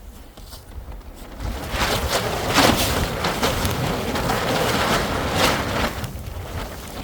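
Strong blizzard wind gusting across the microphone. It swells about a second and a half in, stays loud and buffeting for several seconds, then eases near the end.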